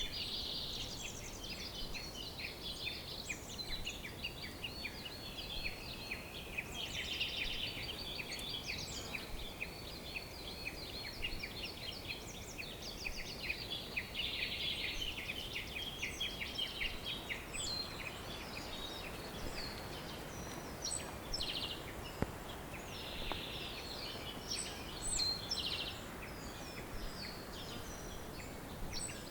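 Several songbirds singing at once, a dense chorus of quick chirps and trills that overlap throughout, over a faint steady background hiss.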